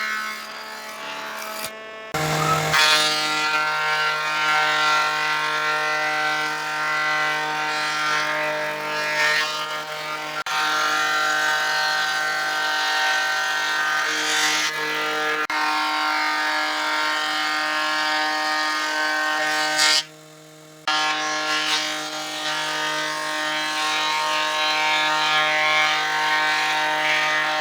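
Electric power tool motor running steadily, with a constant pitched whine. It cuts out briefly twice, about two seconds in and again about two-thirds of the way through.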